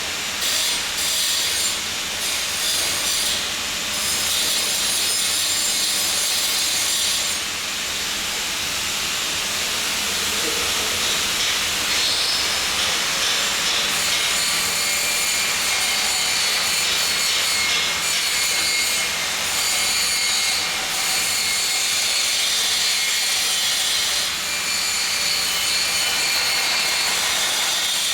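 Electric welding arc running continuously: a steady, loud crackling hiss with small rapid fluctuations.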